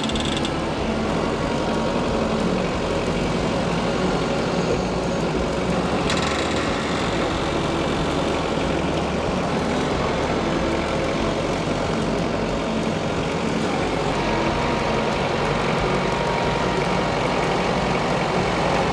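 Stihl MS 881 two-stroke chainsaw running steadily under load, cutting through a thick oak log.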